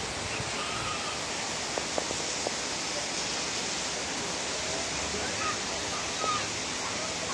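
Heavy downpour: rain falling in a steady, dense hiss, with a few faint taps about two seconds in.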